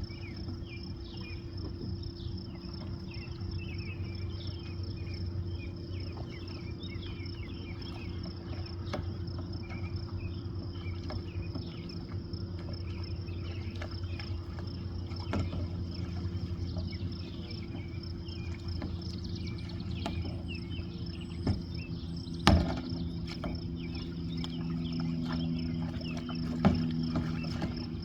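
Insects droning steadily in a high, even tone, with many short chirps over a low steady hum. Sharp knocks come about 21, 22 and 27 seconds in, the middle one the loudest, and the low hum shifts in pitch just after it.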